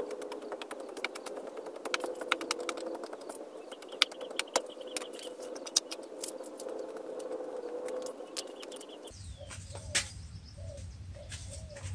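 Many sharp, irregular clicks and ticks over a steady hum. About nine seconds in the background changes abruptly and a bird begins calling in short repeated notes, about two a second.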